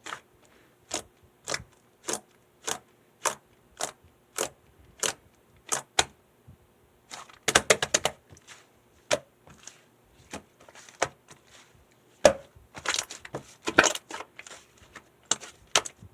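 Slime being squeezed and poked by hand, giving sharp clicking pops of trapped air at an even pace of about two a second, then clusters of quick crackling pops about halfway through and again near the end.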